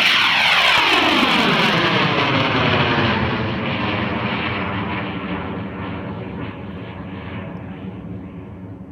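High-power rocket motor roaring after ignition, starting suddenly, then fading slowly with a falling, sweeping whoosh as the rocket climbs away.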